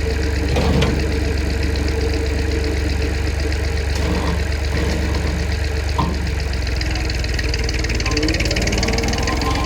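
Small tractor's engine running steadily, with a couple of short sharp knocks and a tone that rises slightly near the end.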